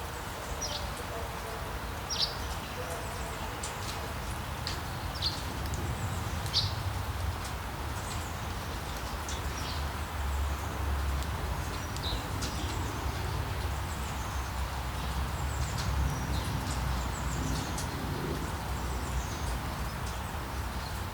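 Sea waves washing in a steady rush, swelling now and then, with wild birds giving many short high chirps a second or two apart.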